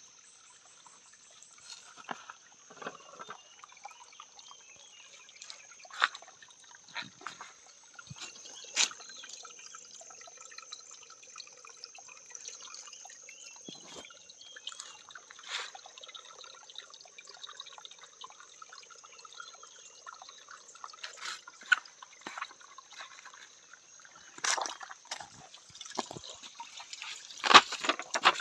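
Water trickling and dripping, with irregular splashes and knocks that grow louder near the end, over a steady high-pitched tone.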